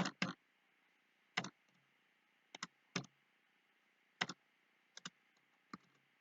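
Computer mouse and keyboard clicks while editing a CAD model: about ten short, sharp clicks at irregular intervals, some in quick pairs.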